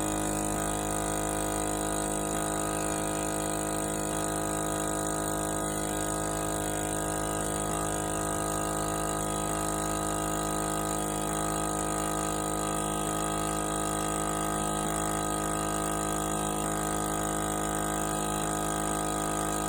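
A motor running with a steady, unchanging hum of many held tones.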